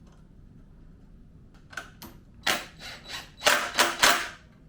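Hands fitting small parts onto a motorcycle during reassembly: a run of sharp clicks and knocks that starts after a quiet second or so, loudest about two and a half to four seconds in.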